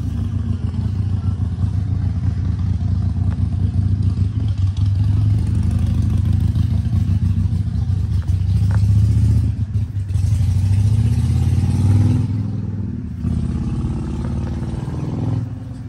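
Car engine running at close range with a deep, pulsing exhaust rumble, revved up louder around nine and again around twelve seconds in.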